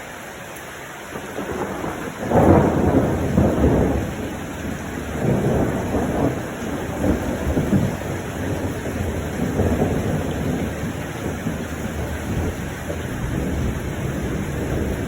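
Thunder rumbling over steady rain. The rumble builds about a second in, is loudest a little after two seconds, and then keeps rolling in waves.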